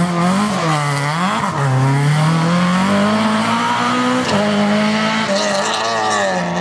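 Rally car engine at full throttle on a stage, its pitch climbing through the gears and dropping at each gear change, about a second and a half in and again just past four seconds.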